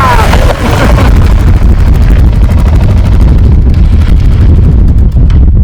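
Heavy wind buffeting on the microphone over the engine and road rumble of a motorcycle riding at speed. In the first moment a passing vehicle's horn drops in pitch and fades.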